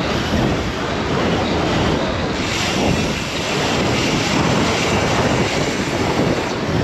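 Wind buffeting the microphone, with rushing road noise, while riding.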